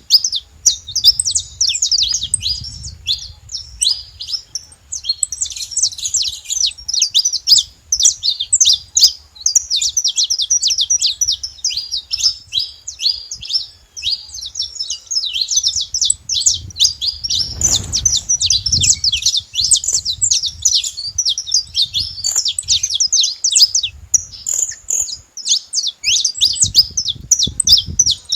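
Saffron finches chirping almost without pause, a dense run of quick high chirps.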